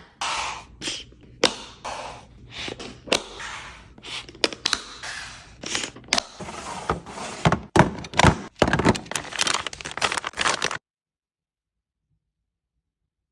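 Snacks and plastic containers being handled and set into a fridge: many sharp knocks and clicks of items set down, with rustling of packaging between them. The sound cuts off suddenly to dead silence near the end.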